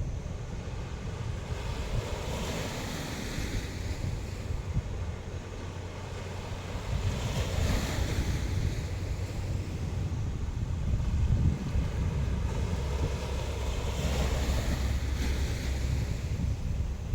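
Sea waves breaking and washing in, a swell of hiss about every four to five seconds, under wind buffeting the microphone with a steady low rumble.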